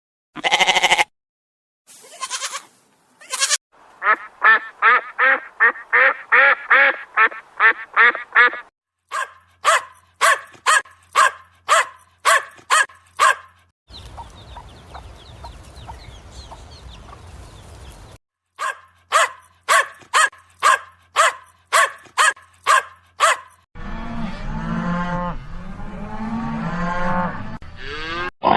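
Domestic waterfowl calling in quick series of about two calls a second, in several short clips one after another, with a noisy stretch and lower, denser animal calls near the end.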